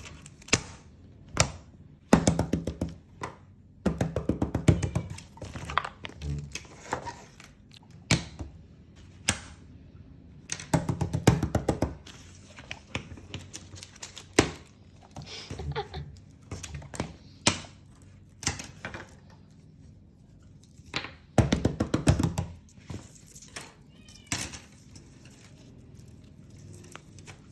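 Fidget toys being handled: bursts of rapid plastic clicking and clattering, several seconds apart, with quieter gaps between.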